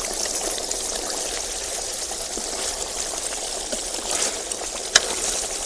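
Tandoori chicken sizzling in a charcoal tandoor: a steady hiss, with one sharp click about five seconds in.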